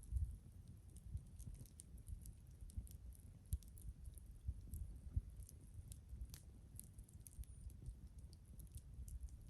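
Wood fire crackling: scattered small pops and snaps at an irregular pace, a few louder than the rest, over a low rumble.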